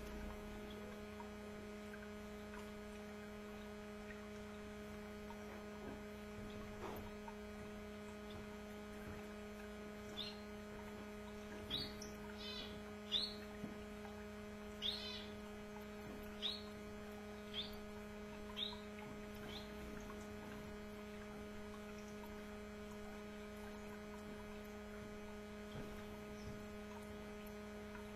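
Canaries giving a run of about eight short chirps in the middle, over a steady electrical hum.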